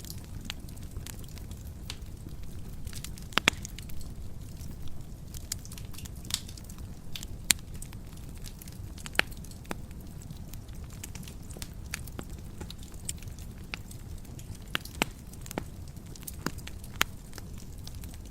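Wood fire burning in a fireplace, with a steady low rumble of the flames and irregular sharp crackles and pops from the logs, a few of them much louder than the rest.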